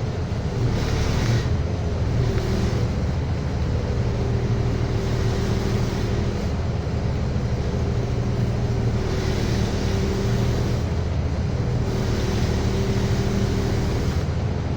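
City bus engine and drivetrain running while driving, heard from inside the cabin: a steady low drone with a faint whine that wavers slightly in pitch, over road noise.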